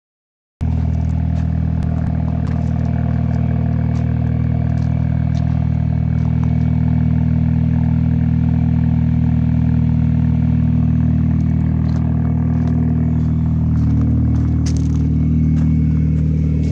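Mini Cooper S four-cylinder engine idling steadily through a custom exhaust, a low, even drone. The idle rises slightly near the end.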